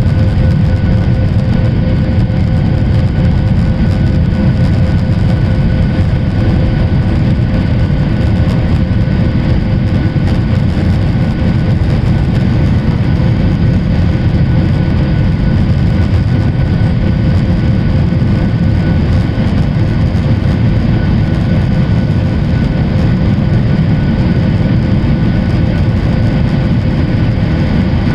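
Boeing 737-800's CFM56 turbofan engines and airflow heard as one steady, loud drone with a constant whine above it.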